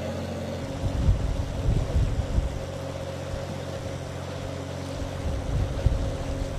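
A boat's engine running steadily, heard from on board, with wind buffeting the microphone in gusts about a second in and again near the end.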